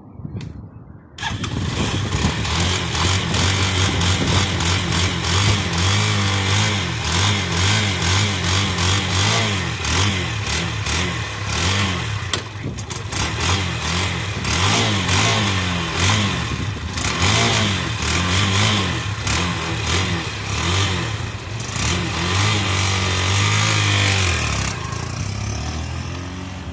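A 150 cc Izh Bike motorcycle engine starts about a second in, then runs with the revs rising and falling repeatedly, growing quieter near the end.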